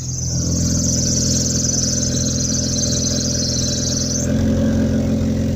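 Car engine pulling from low revs with its serpentine (ribbed accessory drive) belt squealing, a high shrill squeal over the engine that stops about four seconds in while the engine keeps running. The squeal is the belt slipping on its pulleys under load.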